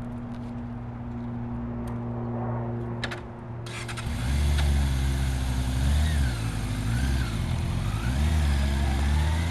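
Yamaha YZF600R's 600cc inline-four engine idling steadily, then from about four seconds in revved up and down several times.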